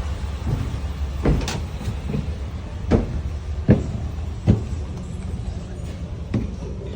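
Steady low engine rumble with irregular metallic knocks and clanks, four of them louder than the rest, around a vehicle ferry.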